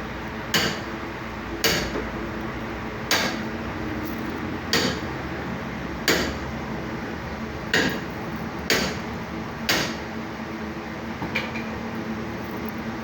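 About nine sharp knocks, roughly one every second or so at an uneven pace, over a steady background hum and hiss.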